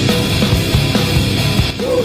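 Loud heavy rock music played by a band, dense and unbroken, with no vocals, dipping briefly near the end.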